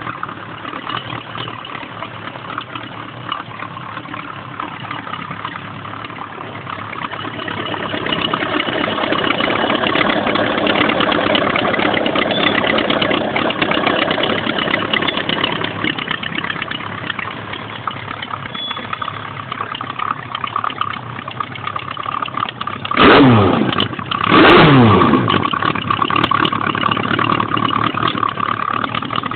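Suzuki GSX1100S Katana air-cooled inline-four engine idling. About two-thirds of the way through it gets two quick throttle blips a second or so apart, each falling straight back to idle.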